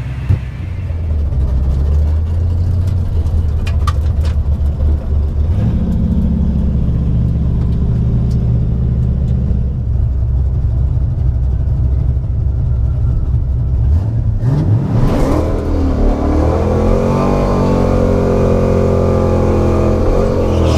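A Ford 5.0 V8 drag car running with a low, steady rumble, then about fourteen seconds in the revs climb steeply and stay high as it launches down the strip.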